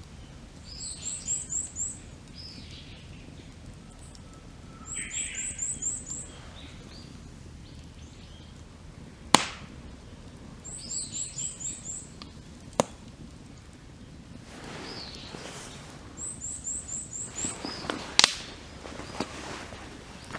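A songbird repeating a short phrase of about five quick, very high notes roughly every five seconds, with other birds calling between, over a steady low hiss. A wood campfire pops sharply three times, the loudest sounds present.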